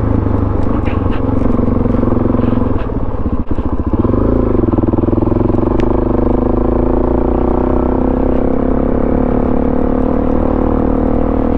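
Suzuki DR-Z400SM's single-cylinder four-stroke engine running through a Yoshimura exhaust while being ridden off-road. The note dips briefly about three and a half seconds in, then picks back up and holds steady, with a few faint clicks and clatter.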